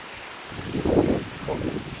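Steady downpour hiss, with gusts of wind buffeting the microphone in a loud rumble about a second in and again briefly just after.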